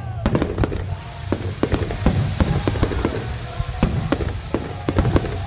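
Fireworks going off in quick, irregular succession: a string of sharp bangs and crackles over a steady low rumble.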